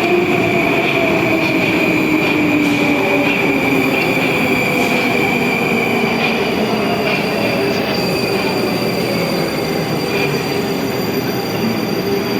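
Moscow Metro train running and slowing, with a high steady whine and lower motor whines falling gradually in pitch over the rumble of wheels on rail.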